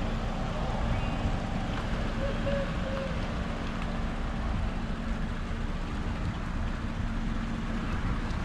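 Steady low rumble of a car driving, with road and wind noise and a faint steady hum.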